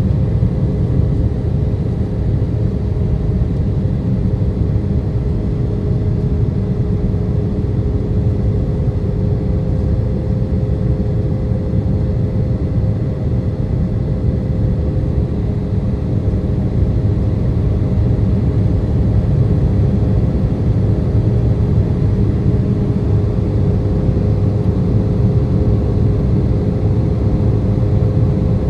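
Airliner cabin noise: a steady, unbroken low rumble of engines and airflow with a faint steady hum.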